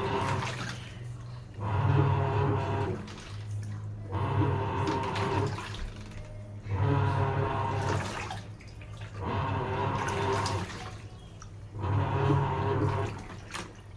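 Sharp washing machine in its wash cycle: the motor hums as it turns the drum back and forth, and the water sloshes in bursts about every two and a half seconds, with short pauses between.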